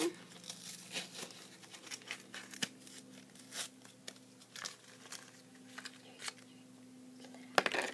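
Plastic toy packaging crinkling and tearing as it is opened by hand, in scattered crackles, with a louder flurry near the end.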